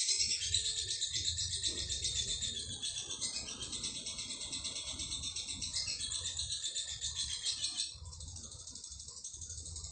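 Lovebird chattering in a long, rapid run of high-pitched notes (the continuous 'ngekek'). It is loud for about eight seconds, then goes on more softly.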